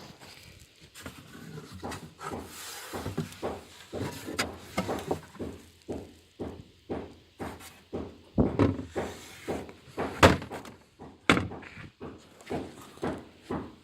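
A run of irregular knocks and thuds, a few a second, with louder bangs about eight and ten seconds in.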